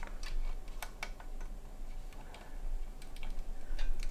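Scattered small clicks and taps at irregular intervals as hands handle PC parts and plug in the case's front-panel connectors, over a low steady hum.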